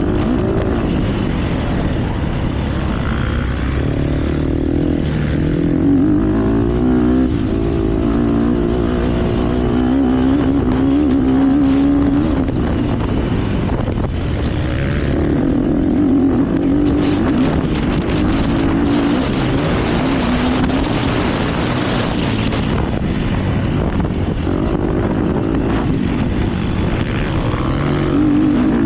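Motocross bike engine at race pace, revving up and dropping back again and again as the rider accelerates, shifts and rolls off for corners, with a noisy rush of wind and some sharp knocks from the bike over the rough track in the middle stretch.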